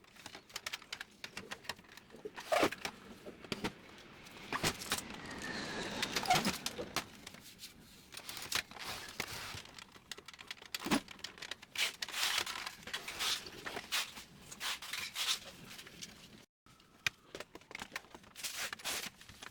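Hands working on laser printer parts: irregular plastic clicks and knocks, with stretches of scraping.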